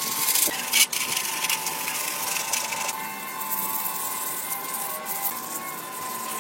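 Scraping, heaviest for about the first three seconds and then fainter, with a faint steady tone underneath.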